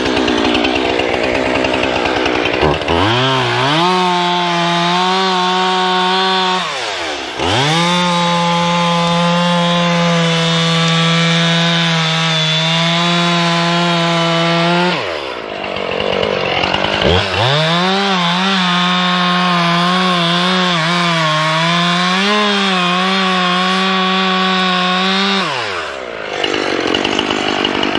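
Two-stroke chainsaw revved to full throttle three times, cutting through wood, and dropping back to idle between cuts; the pitch wavers under the load of the last cut.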